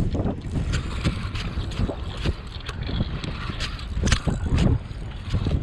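Wind buffeting the microphone in a steady low rumble, with scattered sharp clicks and knocks throughout.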